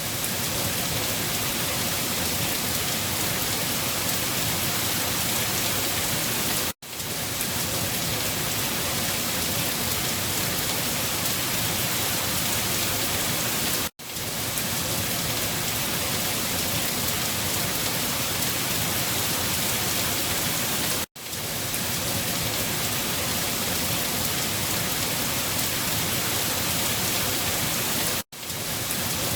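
Steady rain falling, an even hiss of many drops. The sound drops out for an instant about every seven seconds, four times.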